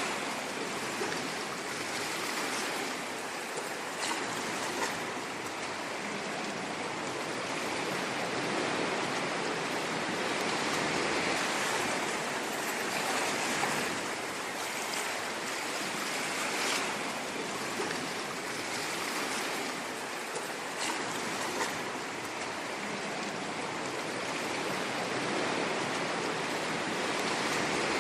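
Ocean waves washing ashore: a steady surf hiss that swells and eases gently every few seconds, with a few faint short splashes.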